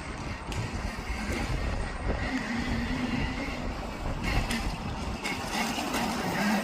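Gecko Mini 1.4 electric kids' dirt bike running, with a faint motor hum coming and going over a steady low rumbling noise.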